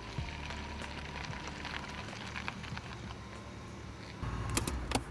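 A BMW 3 Series (E36) saloon's engine runs low and steady as the car creeps up and stops. A few sharp clicks come near the end.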